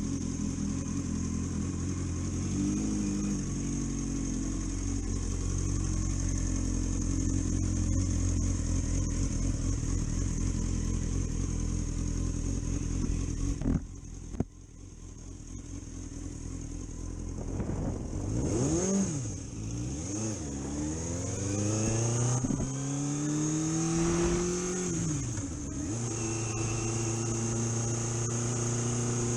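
Car engine running steadily; a little before halfway, two sharp clicks and a brief drop in level. The revs then climb and fall several times before settling to a steady drone.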